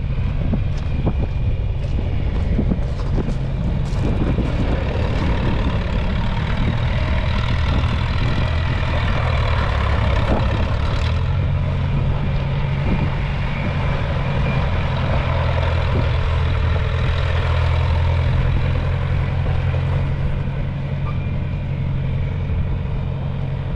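John Deere 3010 propane tractor's four-cylinder engine running steadily on the move, with a few clanks early on. Its low note grows stronger and steadier about eleven seconds in.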